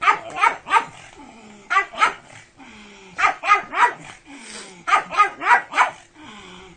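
Pug barking excitedly in quick bursts of two to four sharp barks, about four bursts in all.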